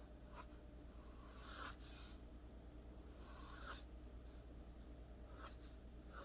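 Pencil scratching on paper: two long strokes of about a second each, with a few short flicks between, faint.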